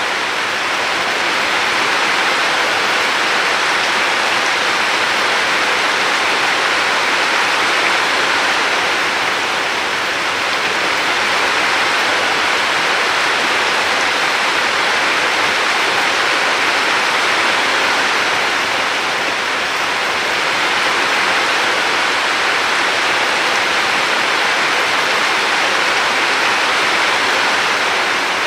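Steady rushing of river water, an even wash of noise that swells and eases slightly every several seconds.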